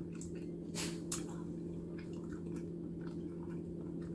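Close-up chewing of a soft stuffed zucchini boat: scattered wet mouth clicks and smacks over a steady low hum.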